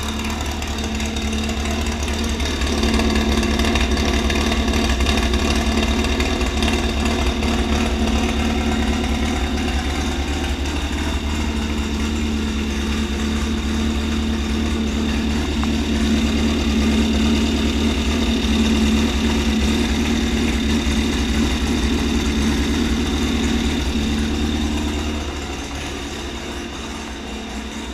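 VW Brasilia's 2300 cc engine running through a Stinger exhaust, steady at idle, picking up a little about three seconds in and settling back lower near the end.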